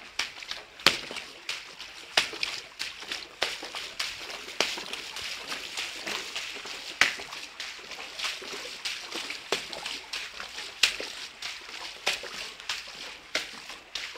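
Footsteps wading through shallow floodwater, each step a splash and slosh, in an uneven walking rhythm.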